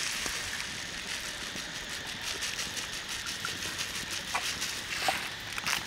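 Pork slices in beaten egg sizzling in a hot pan: a steady crackling hiss, with a few small clicks near the end.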